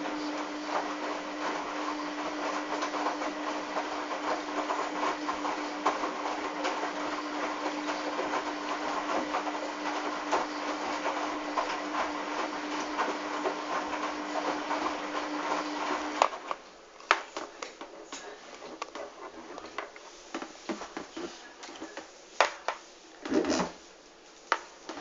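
Hoover washing machine running with a steady motor hum and rattling, which stops suddenly about two-thirds of the way through, followed by scattered clicks and knocks and one dull thump.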